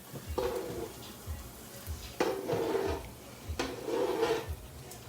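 A utensil scraping and stirring in a pan in three strokes of about a second each, over background music with a steady low beat.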